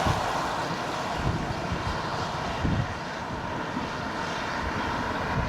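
Steady rushing wind noise, with irregular low thumps of gusts buffeting the microphone.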